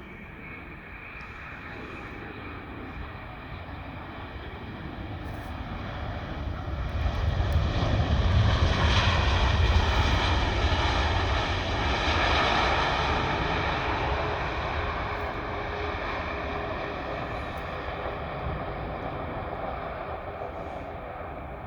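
Boeing 787 jet airliner passing on its landing approach. Its engines give a low rumble and a whine that swell to a peak about halfway through, then slowly fade.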